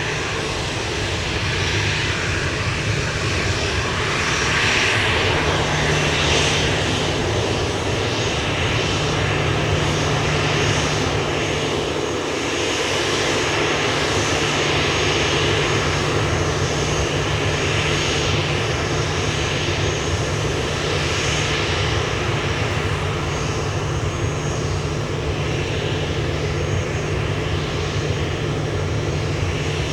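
Jet airliner engines running with a steady, even noise and a faint high whine over it, holding at nearly the same loudness throughout.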